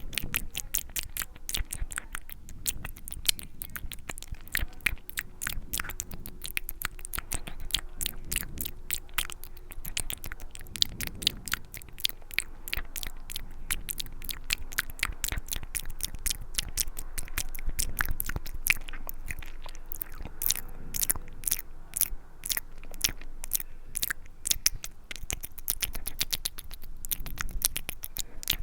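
ASMR mouth sounds, recorded close to the microphone: a rapid, continuous run of sharp mouth clicks and smacks, many a second, like eating noises.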